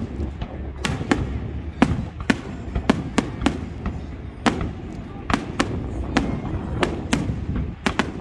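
Fireworks display: aerial shells bursting in quick, irregular succession, about two sharp bangs a second, over a steady low rumble.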